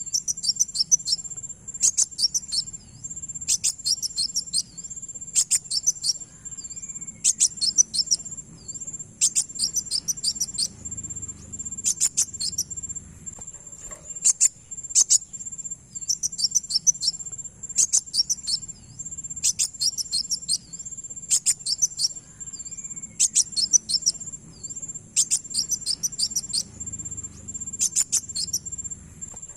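Kowul (kolibri wulung) sunbird song used as a lure call: clusters of rapid, high-pitched notes repeated about every two seconds. A continuous high, steady insect-like whine runs underneath.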